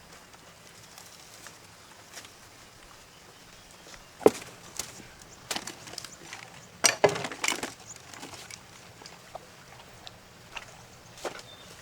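Scattered sharp knocks and clatters, with a loud single knock about four seconds in and a quick cluster of them around seven seconds.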